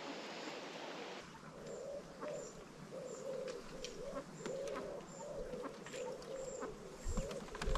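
Birds calling: a low call repeated about twice a second, with faint high chirps above it. Two low bumps come near the end.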